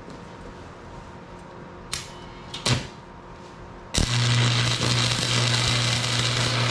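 Arc of a Lincoln AC180S AC stick welder: two brief scratching crackles as the electrode is struck, then about four seconds in the arc catches and burns steadily for about three seconds, a crackling sizzle over a loud, steady low buzz. A test weld made to check that a setting on the amperage dial works.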